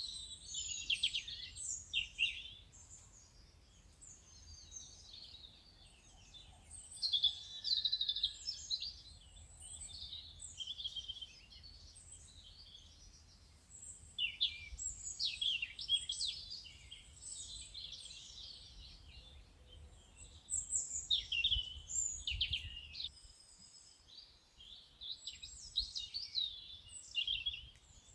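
Several songbirds singing and chirping in dense, overlapping trills and calls, over a faint low rumble that drops away near the end.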